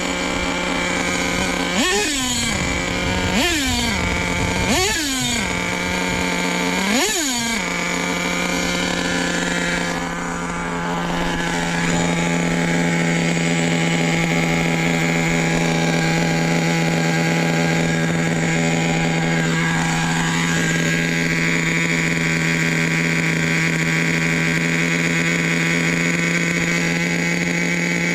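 Small nitro engine of an RC truck blipped up in revs four times in the first seven seconds, each rev falling quickly back, then holding a steady idle.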